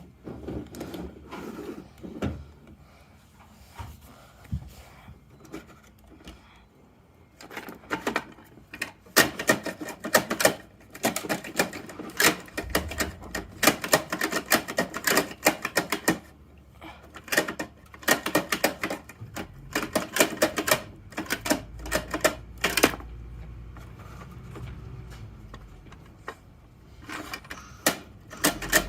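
Rapid runs of sharp plastic clicks and rattles from a toy Bruder Mack garbage truck being worked by hand, with a brief low rumble between the bursts.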